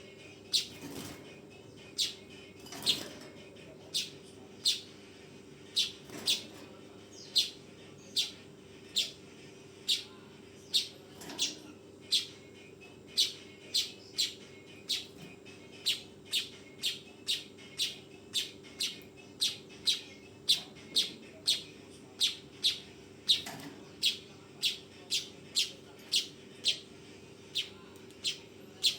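Manyar (weaver bird) giving short, sharp, high chirps over and over: about one a second at first, quickening to nearly two a second later on. A steady low hum runs underneath.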